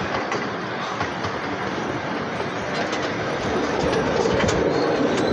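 Train rolling along the track, heard from on board: a steady rumble with the clickety-clack of wheels over the rails, growing a little louder in the second half.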